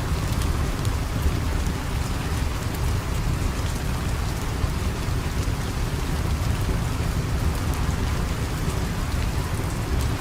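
Steady rain falling, an even wash of noise with a deep low rumble, with faint scattered crackles over it.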